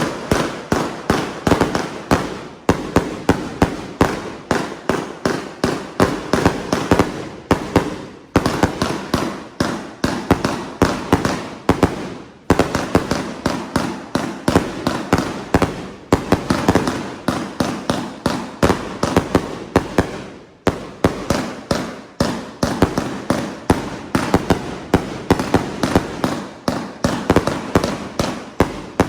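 A Peacock 1.5-inch, 88-shot fireworks cake firing shot after shot in rapid succession, the launch thumps and burst reports overlapping. Every few seconds there is a brief lull before the next volley.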